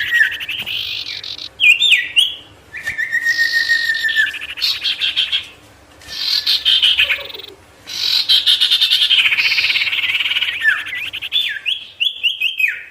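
A sirtu songbird singing in long phrases of rapid, rolling trills and sharp chirping notes, broken by short pauses. This is the kind of loud song used to provoke rival wild birds to come close.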